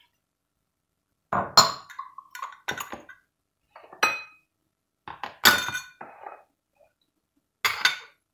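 Metal cooking pot clanking and ringing as it is shaken to toss green beans in their sauce: five clusters of sharp knocks over several seconds, each with a short ring.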